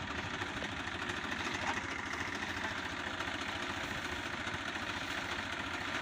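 Diesel tractor engine running steadily at low speed, with an even low pulsing.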